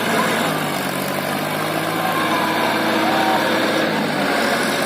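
Tractor engine running steadily, its note shifting slightly near the end.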